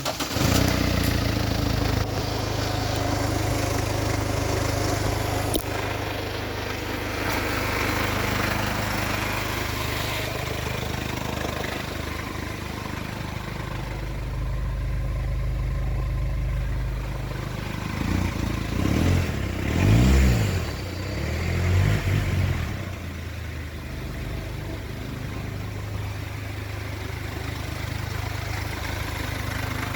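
2012 Mercedes-Benz Vito 2.1-litre four-cylinder turbodiesel running at a steady idle, blipped up and back down several times about two-thirds of the way through, then settling back to idle. The engine is running well (tested good).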